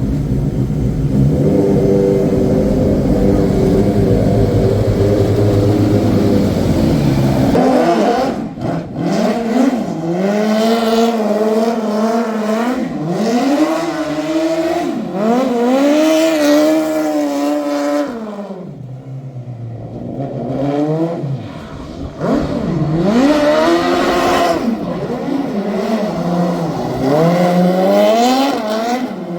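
The twin Suzuki Hayabusa engines of a mini truck running hard, with a steady high drone for about the first seven seconds. Then the revs climb and drop again and again in quick runs, with a short lull partway through.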